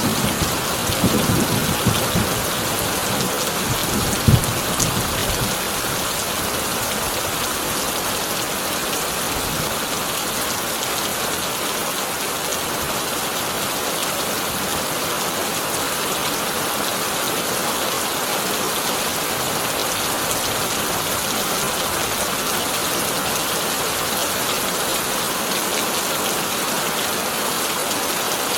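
Heavy rain drumming steadily on a corrugated tin roof. A low thunder rumble dies away over the first five seconds or so, with one sharp low thump about four seconds in.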